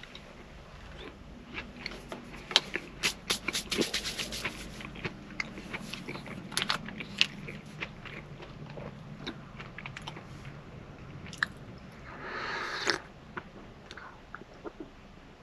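Food being handled and eaten close up: an irregular run of sharp clicks, crackles and crunches, busiest in the first half, over a low steady hum. A short rustling burst comes near the end.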